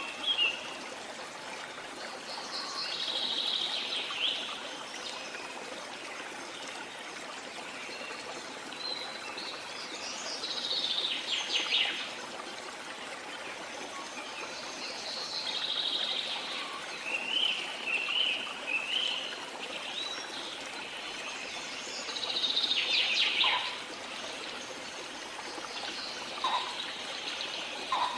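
Steadily trickling stream with birds singing short phrases every few seconds over it.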